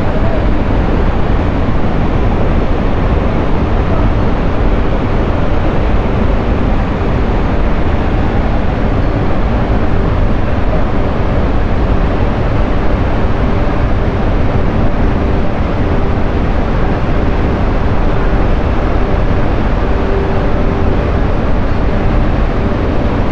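Jog Falls on the Sharavati river in full rainy-season flow: a loud, steady rush of falling water that does not change.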